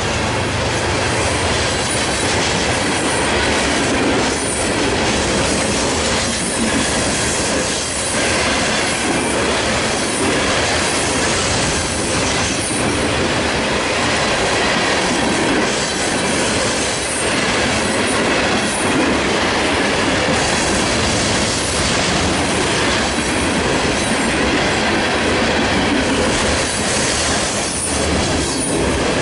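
CSX freight train cars rolling past at speed: a steady, loud rumble and clatter of steel wheels on the rails, with repeated clicks over rail joints.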